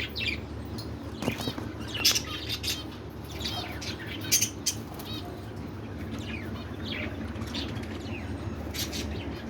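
Budgerigars in a cage, wings fluttering and short high chirps scattered throughout, over a steady low hum.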